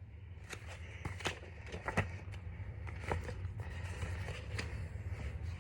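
Scattered faint clicks and taps over a low, steady hum.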